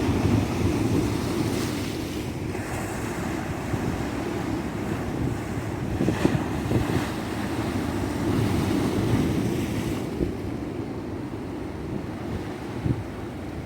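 Ocean surf washing onto a beach: a continuous rush of breaking waves that swells louder now and then, notably about six seconds in, with a low rumble of wind on the microphone.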